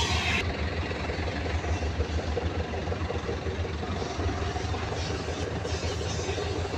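An engine running steadily with a low, fast-pulsing rumble.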